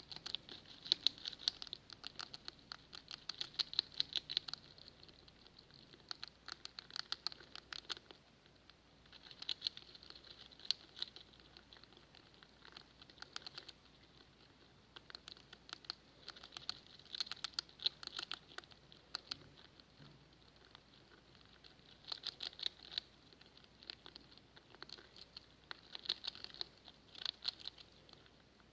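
Pet rats making rapid crackling clicks in bursts of a second or two, with short quieter gaps, like a fire crackling.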